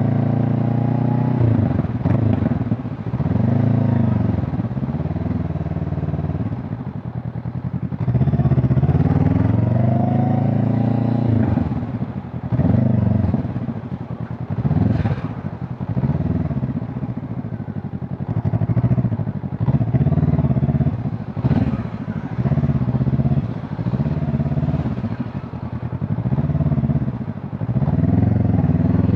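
Honda CB500 Hornet's parallel-twin engine and exhaust while riding. The pitch climbs again and again as the bike accelerates and drops back at each gear change or roll-off, with a long, steep rise about nine to eleven seconds in.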